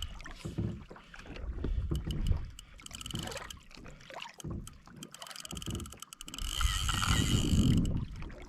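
Water sloshing and slapping against a kayak hull, with irregular low rumbles and scattered clicks and knocks on the boat.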